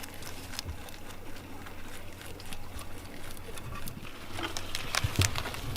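Horse's hooves knocking on hard ground: scattered clicks at first, then closer and louder near the end.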